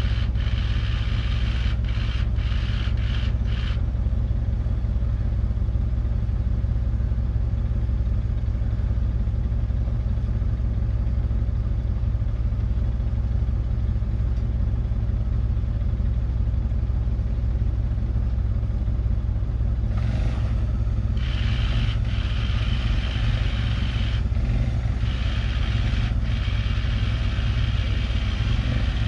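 Land Rover Discovery engine idling steadily close by. In the last third, a small off-road vehicle's engine comes in over it and grows louder as it approaches.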